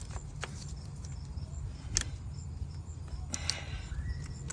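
A few sharp clicks and taps, the loudest about two seconds in and another near three and a half seconds, as a hose piece and its fittings are handled and pushed into place, over a steady low rumble.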